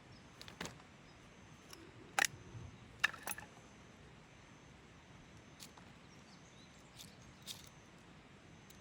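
A few scattered sharp clicks and knocks over a quiet outdoor background, the loudest two a second apart about two and three seconds in.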